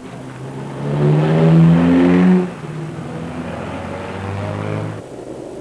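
Car engine accelerating hard, its pitch rising for about a second and a half, then easing to a steadier run that cuts off abruptly near the end.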